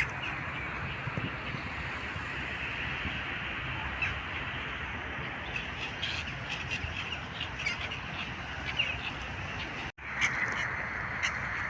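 A flock of birds at a pond calling, with many short chirps and squawks over a steady background noise. The sound drops out for an instant about ten seconds in, then resumes.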